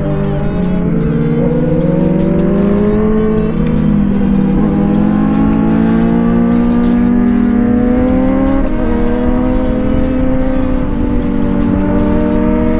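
Sportbike engine pulling uphill under throttle. Its pitch climbs slowly through a long gear, drops at an upshift about nine seconds in, then climbs again, with another dip near the end. Steady wind rush runs underneath.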